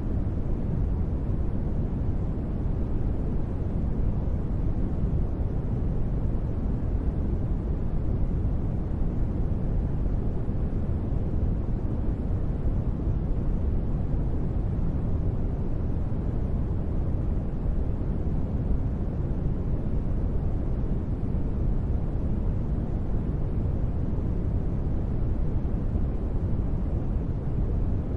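Steady, unchanging noise ambience with no events in it: a deep, even rumble with little high hiss, closer to brown noise than to bright white noise.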